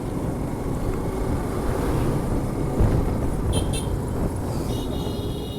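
Motorcycle riding noise: wind rushing over the microphone mixed with engine and road noise, with short high-pitched tones about three and a half seconds in and again near the end.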